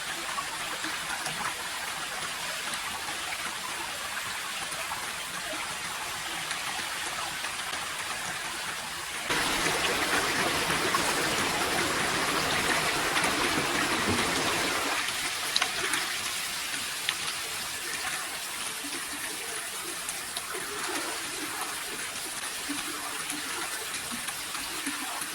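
Running water, like a small stream trickling and splashing. It gets suddenly louder about nine seconds in, then drops back after several seconds, with a few small knocks.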